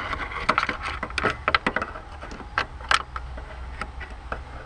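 Irregular clicks and light metallic clinks of hand tools and small metal parts being handled, over a low steady hum.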